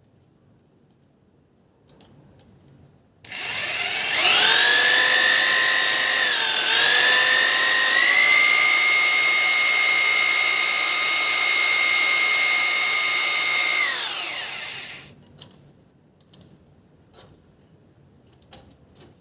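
Electric drill fitted with a cobalt drill bit: the motor spins up about three seconds in, its whine dips briefly under load, holds steady, then winds down near the end. A few light clicks follow.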